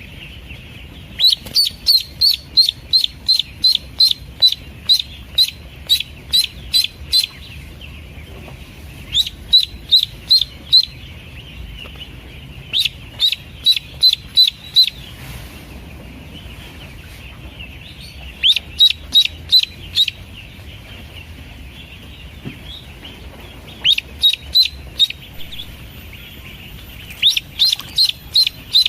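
Pekin duckling peeping: runs of short, high peeps at about four a second, each run lasting a few seconds before a pause, over a steady low hum.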